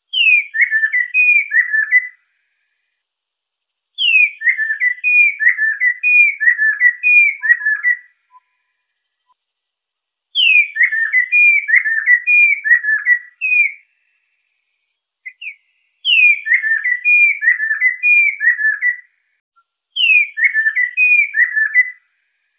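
Lesser necklaced laughingthrush singing: loud whistled phrases, each opening with a high downward-sliding note followed by a quick run of falling, slurred notes. Six phrases come about every four to six seconds with short pauses between, one of them only a brief fragment.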